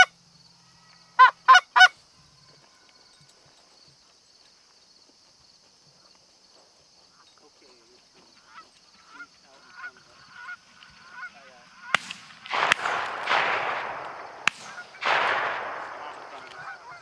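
Goose honking: three loud, short honks about a second in, then fainter scattered honking further off. In the last few seconds come two bursts of rushing noise with a few sharp clicks.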